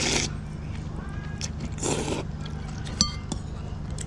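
Eating noodle soup: two short slurps about two seconds apart, then a spoon clinks once against the bowl about three seconds in, over a steady low hum.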